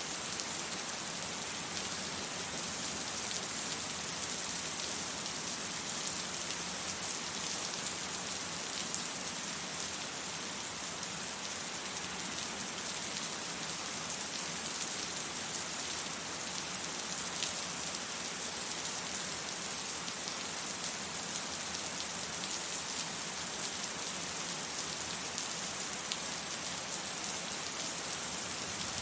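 Steady rain falling: an even hiss of many drops with fine pattering, unchanging throughout.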